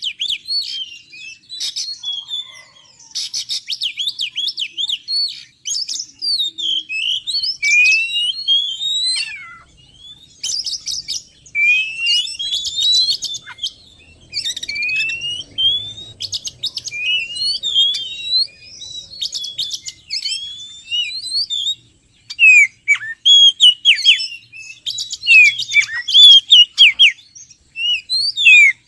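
Oriental magpie-robin singing a rapid, varied song of clear whistles, rising and falling glides and quick chips, broken by short pauses between phrases. Louder, sharp down-slurred notes come in the last several seconds.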